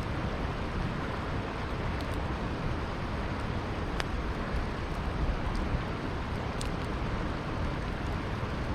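Campfire crackling, with a few sharp pops (the loudest about four seconds in), over the steady rush of flowing river water.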